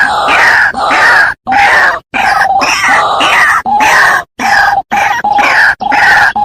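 White-breasted waterhen giving its harsh, repeated 'kru-ak' calls, about three a second, loud and continuous with a few brief breaks.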